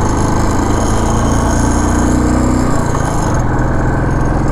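Royal Enfield Classic 350's single-cylinder engine running under way, with wind and road hiss; the engine note shifts about three seconds in.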